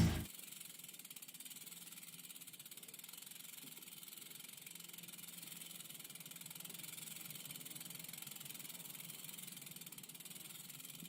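Faint steady hiss with a low hum underneath, right after loud rock music cuts off at the start.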